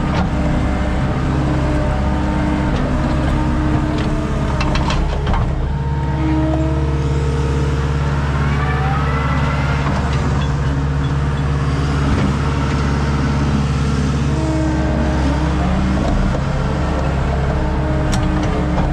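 Skid steer engine running steadily under work, with a few clicks about four to five seconds in and a whine that rises and falls near the middle.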